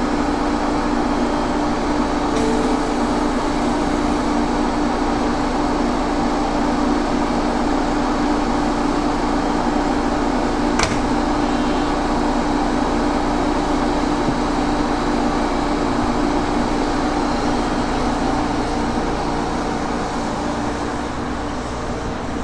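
Electric train standing at the platform, its air-conditioning and auxiliary power units giving a steady fan-like hum with a low drone, easing slightly near the end. A single sharp click about halfway through.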